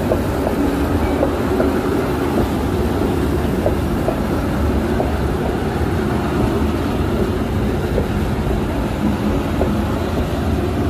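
Passenger train coaches rolling past at close range: a steady rumble of steel wheels on the rails with scattered short clicks.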